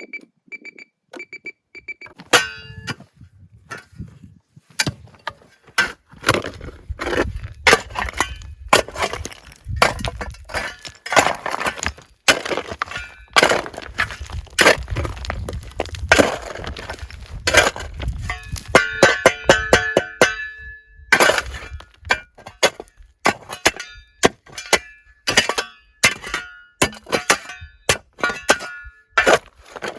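A long run of sharp knocks, clinks and cracks, irregular and often several a second, some ringing briefly. A few short, even, high beeps sound in the first two seconds.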